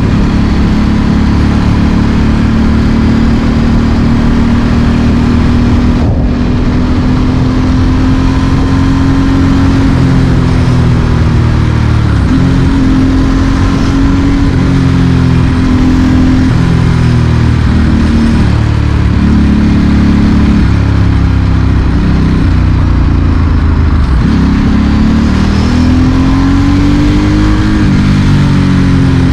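Ducati Monster S4R's L-twin engine through a straight Mivv exhaust, pulling at low city speed. The revs drop and climb again several times as the throttle is closed and opened and gears change.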